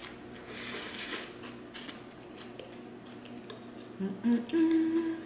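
Wet chewing of a large mouthful of burger. Near the end comes a loud closed-mouth "mmm" of enjoyment, rising in a couple of steps and then held briefly.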